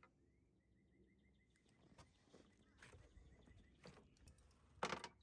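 Near silence, broken by a few faint knocks and clicks and one sharper, louder knock near the end.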